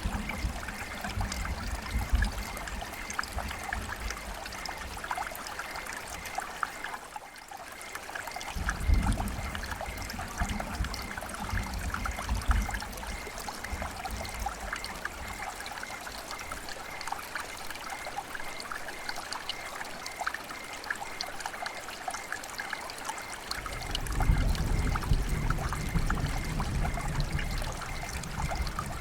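River water flowing and splashing: a steady rush with fine trickling detail, and a low rumble that swells in and out, strongest from about 24 seconds in.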